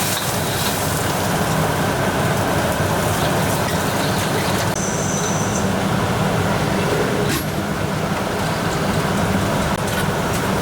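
Steady mechanical roar of a commercial kitchen's exhaust hood fan and gas burners, with a single sharp click about seven seconds in.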